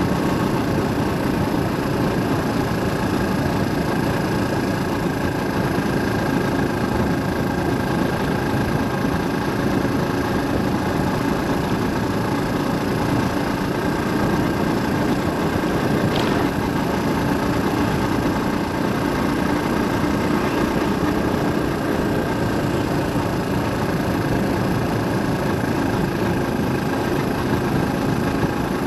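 Steady engine and road noise of a car driving, with a brief faint tick about halfway through.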